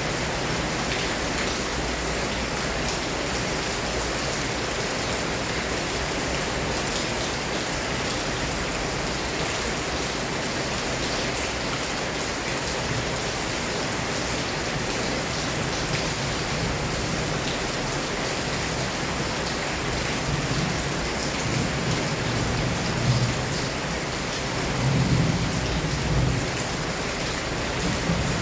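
Heavy rain pouring steadily in a storm, an even hiss of rain on surfaces, with a few low rumbles rising and falling over the last several seconds.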